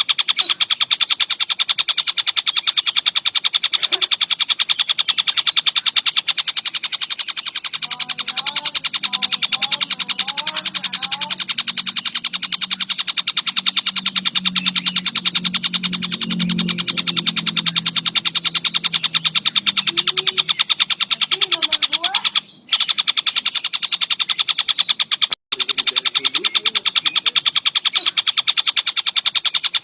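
Kingfisher (tengkek buto) calling continuously in a rapid, dense chattering trill, broken by two brief gaps in the last third.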